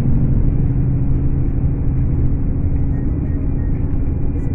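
Scania K410 coach's diesel engine running steadily under way, a constant low drone with no change in pitch.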